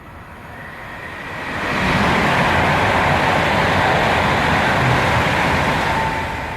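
A train passing on the main line: its rumble and rail noise build over about two seconds, hold loud for several seconds, then begin to fade near the end.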